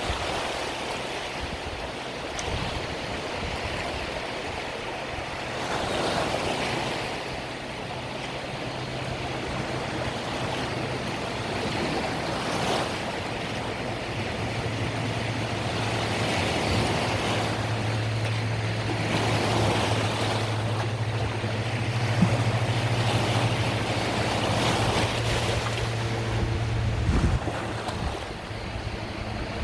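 Mediterranean waves washing onto a beach, a surge of surf every few seconds. Under the surf runs a steady low engine hum that stops near the end.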